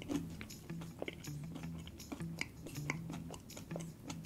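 Close-miked chewing of a mouthful of Hershey's Sundae Pie, soft and wet, with many small irregular mouth clicks and smacks.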